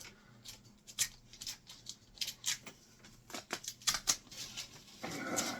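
Tape being peeled from the edges of a painting: a string of short, sharp crackling snaps at irregular intervals.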